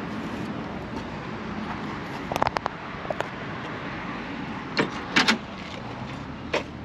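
Car door of a 1967 Ford Mustang coupe being worked: a quick run of clicks from the handle and latch, then a few louder clunks as the door opens, over a steady background rumble.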